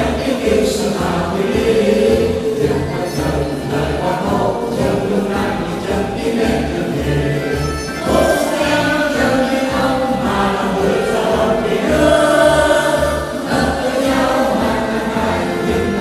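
A choir singing a song over an instrumental backing with a steady, regular bass beat.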